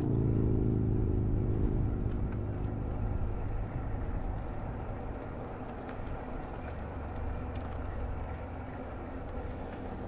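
A car's engine running close by, its hum fading away over the first two or three seconds, then a steady low rumble.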